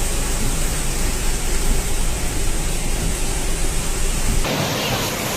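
Loud, steady rushing of floodwater and heavy rain, with a deep rumble underneath. About four and a half seconds in the sound changes abruptly and the rumble drops away.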